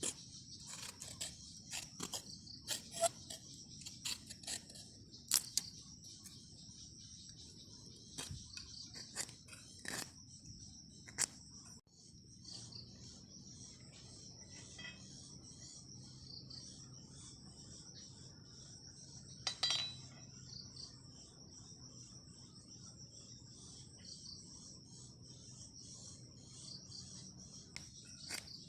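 Steady chorus of crickets trilling high and continuously, with scattered sharp clicks and knocks, most of them in the first half.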